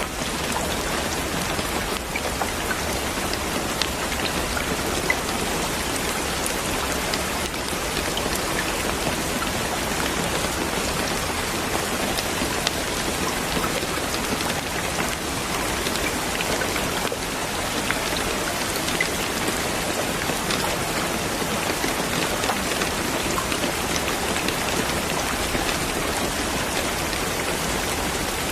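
Steady rain falling on a surface, an even hiss with scattered patters of individual drops.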